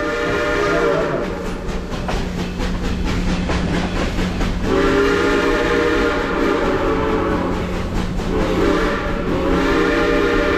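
Steam locomotive whistle, a chime of several notes, blowing a long blast that ends early, then long, short, long near the end, the pattern of the grade-crossing signal. Between the blasts the train's wheels clack over the rails under a steady running rumble.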